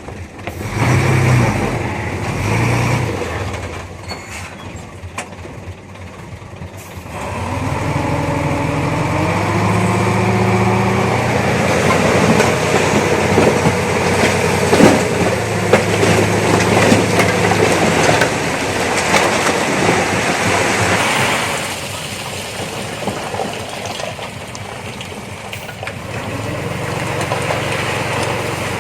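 Diesel engine of a D20P crawler bulldozer at work. About seven seconds in the engine rises in pitch and runs hard under load, with clanking and squealing from the steel tracks. About twenty-one seconds in it eases back.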